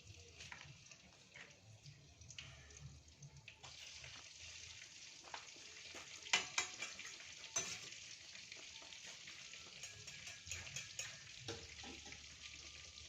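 Tempe frying in hot oil: a steady sizzle that grows denser about four seconds in, with a few sharp clinks of a utensil against the pan.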